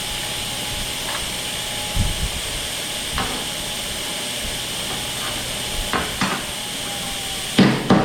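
Welding arc crackling and sizzling steadily on sheet metal of a car's radiator support, with a few single knocks, then a quick run of sharp knocks at about five a second near the end.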